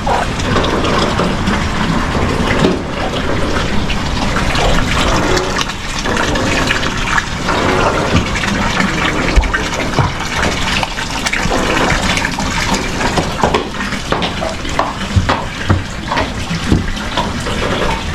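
Heavy rain pouring down in strong wind, a dense steady rush with many small patters and gusts rumbling on the microphone.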